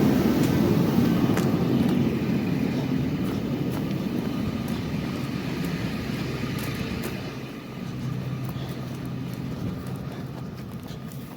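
Steady low mechanical rumble that gradually grows fainter.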